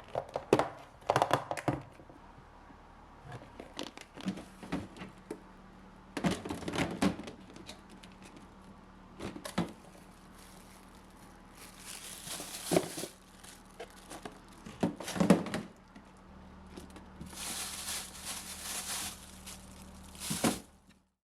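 Kitchen handling sounds: scattered knocks and clunks of containers being set down, with two longer bursts of crinkling plastic packaging. A faint steady hum lies underneath.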